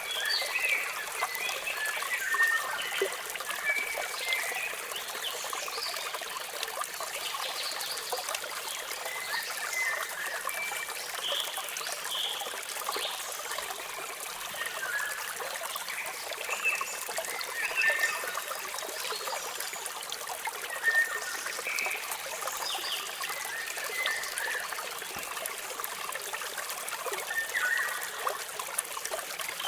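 Water splashing and trickling steadily in a small waterfall, a constant hiss with little low rumble. Birds chirp in short, scattered calls over it throughout.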